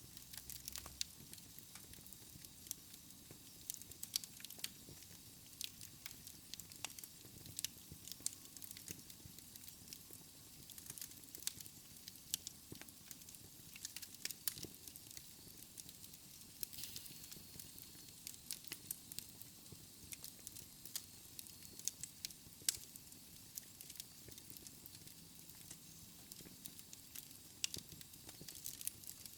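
Wood fire crackling in a fireplace: frequent, irregular small pops and snaps over a soft hiss.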